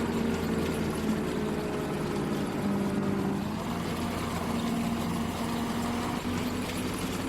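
Engine of harvest machinery running steadily, its pitch wavering slightly.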